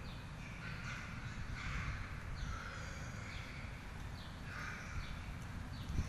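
Birds calling over and over, about once a second, over a steady low rumble.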